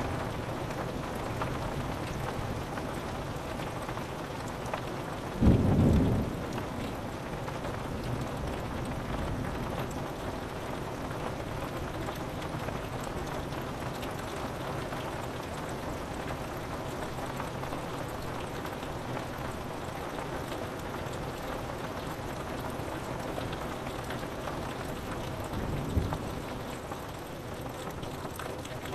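Steady rain falling on window glass, with a short loud clap of thunder about five seconds in and a fainter one near the end.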